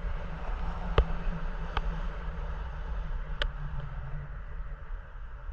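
Wind rushing over the microphone in paragliding flight: a steady low rumble with a hiss above it, broken by three short sharp clicks about one, two and three and a half seconds in.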